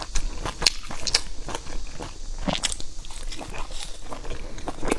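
Close-miked biting and chewing of a soft dumpling dipped in sauce, with irregular sharp mouth clicks and smacks a few times a second.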